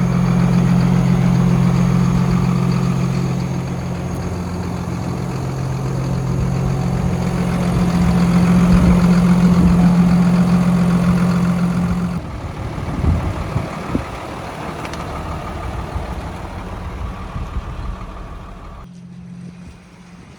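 Box truck's diesel engine idling, with a loud, steady low hum that stops about twelve seconds in; the engine noise carries on more quietly after that.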